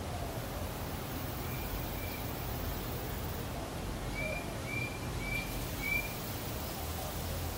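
A bird calling: a run of short, high, even-pitched notes, two faint ones a little after the start and then four louder ones about half a second apart around the middle, over a steady low background rumble.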